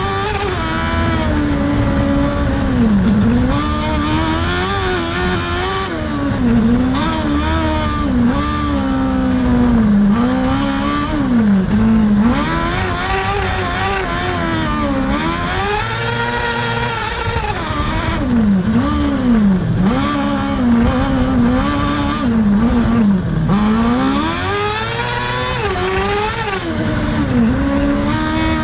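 Cross kart's 600cc motorcycle engine at racing speed, revving up and down over and over as it accelerates, shifts and brakes through the corners.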